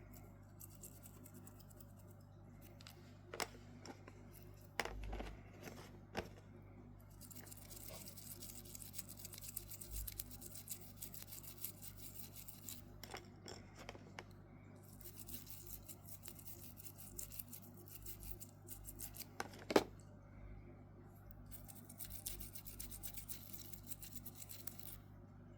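Fine scratchy scrubbing on the parts of a Casio G-1800D watch being cleaned, in three stretches of several seconds, with a few sharp clicks of small parts being handled.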